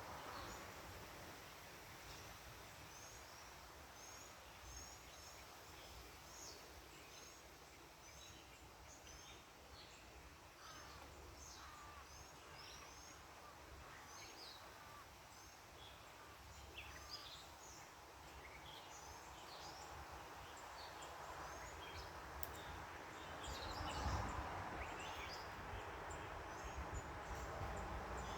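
Backyard ambience of many small birds chirping, short high chirps scattered throughout. Near the end the hum of a passing car swells, loudest about three-quarters of the way through.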